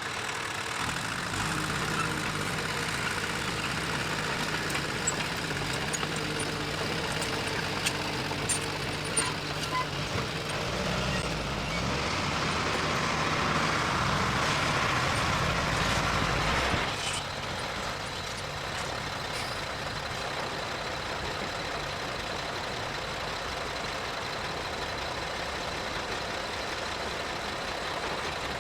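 Heavy-equipment diesel engine working under load. It gets louder from about a second in and is strongest a few seconds before it drops off suddenly about 17 seconds in, then runs on steadily at a lower level. A few sharp metallic knocks come around 8 to 9 seconds in.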